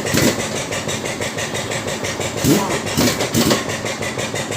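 An engine running steadily with a fast, even clatter of ticks.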